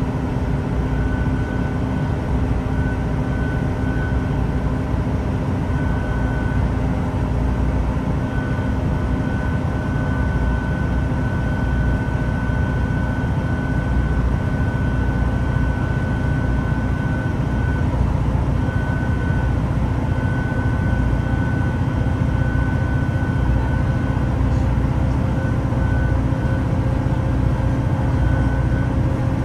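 Cabin sound of a Class 166 diesel multiple unit under way: a steady rumble from its underfloor diesel engines and the wheels on the rails, with a high whine that cuts in and out.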